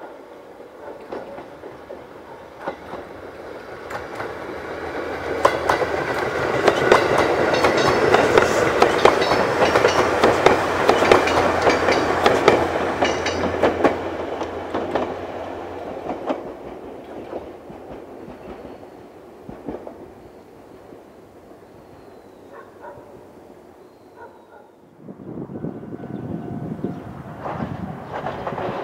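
A train rolling past, its wheels clattering rapidly, building up over a few seconds, staying loud for several more, then fading away. The noise starts to build again near the end.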